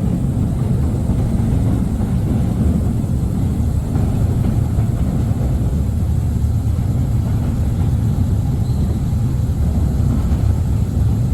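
Small electric passenger train of the Mail Rail ride rolling through its narrow underground tunnel: a steady low rumble.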